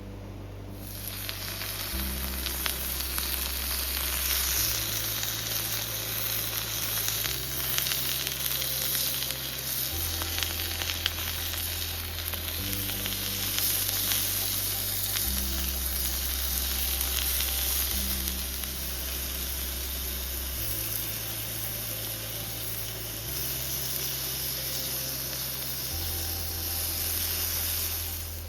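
Food sizzling as it fries in a hot pan, with a dense crackling hiss that starts about half a second in, over background music with slow-changing bass notes.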